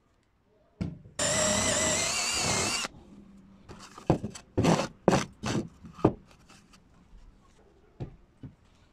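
An electric drill runs for under two seconds with a wavering whine, then stops abruptly. A string of sharp knocks and clatters follows.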